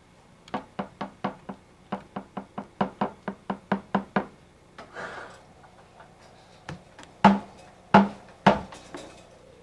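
A quick run of sharp knocks, about four a second, then a brief scrape and three loud thumps near the end.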